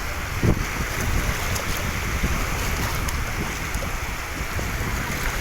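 Steady noise of wind and water, with wind buffeting the microphone in uneven low rumbles and a low thump about half a second in.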